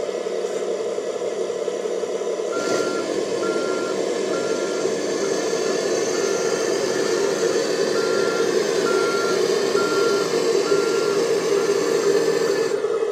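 An RC Scania G540 dump truck's onboard sound system plays a truck engine running steadily through its small speaker. From about two and a half seconds in, its backup beeper sounds, about one and a half beeps a second. The beeper goes off whenever the truck is nudged.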